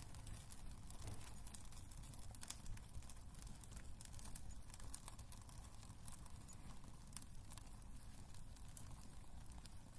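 Wood fire burning in a fireplace, crackling quietly with irregular small pops and snaps over a low steady rumble.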